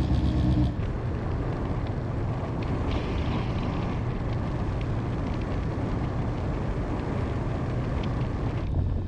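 Honda motorcycle on the move, a steady engine hum under wind rushing over the microphone. A little under a second in the sound changes abruptly, and the clear engine note gives way mostly to wind and road noise.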